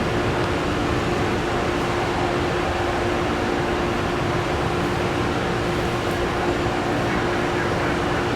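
Jet engines of a UPS Airbus A300-600F freighter on its take-off run: a steady, loud, even rush of engine noise with a constant low hum running through it.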